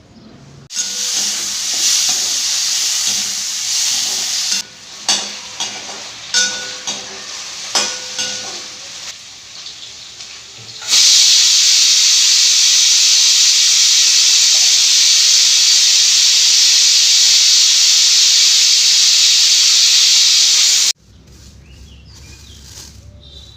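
Food sizzling in a hot pan, with a metal utensil stirring and clinking against the pan for several seconds, then a loud, steady sizzle that cuts off suddenly near the end.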